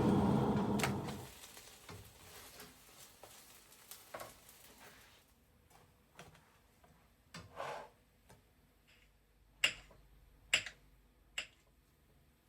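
Kitchen handling sounds: a loud rush of noise that stops about a second in, then light clicks and knocks of utensils and dishes, with three sharp knocks close together near the end.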